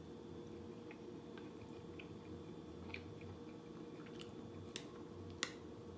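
A person chewing a mouthful of tender chicken, with small wet mouth clicks, then a couple of sharp clicks near the end as a metal fork taps the bowl.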